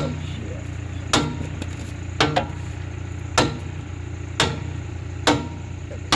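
A hammer striking metal about once a second, beating a piece into place for welding, one blow doubled, over a steady low hum.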